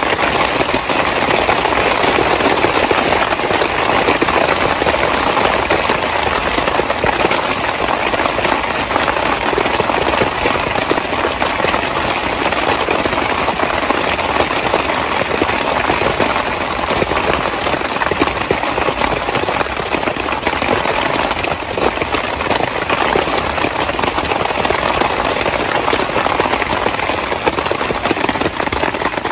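Heavy rain falling steadily on a tent, a dense even hiss with no let-up.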